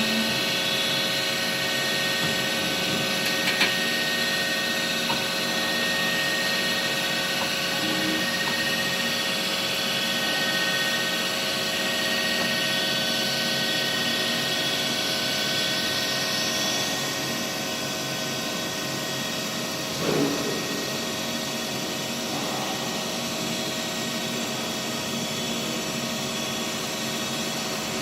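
Miyano JNC 45-S CNC lathe running: a steady mechanical whine of many held tones, with a few light clicks and a short knock about two-thirds of the way through. The sound drops slightly in level just past the middle.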